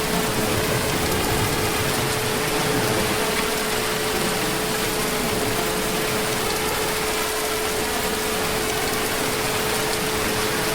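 Heavy rain falling in a steady, unbroken hiss, with a thin steady tone running through it.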